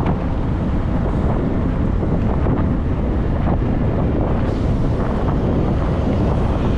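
Steady wind buffeting the microphone of a camera riding on a moving e-bike, a constant rushing noise heaviest in the low end.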